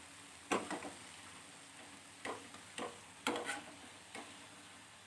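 A kitchen utensil knocking and scraping against cookware in a handful of short, sharp clinks as fried banana fritters are drained of oil and lifted out of the pan, over a faint steady hiss.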